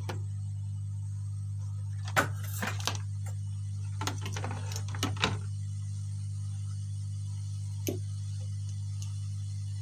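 Steady low electrical hum from the repair bench equipment, which switched on just before. Over it come a few light clicks and taps of small tools on the motherboard, clustered a couple of seconds in, around four to five seconds in, and once near eight seconds.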